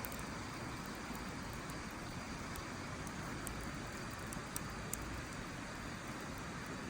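Wood fire burning with a steady rushing hiss and a few faint crackles and pops, mostly in the second half.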